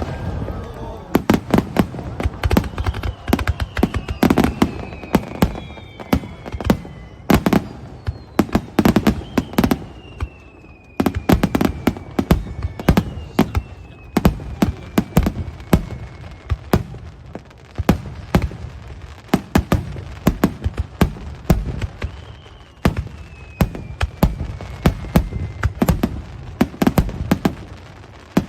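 Aerial fireworks bursting in a rapid, dense string of bangs and crackles, with several whistles falling in pitch.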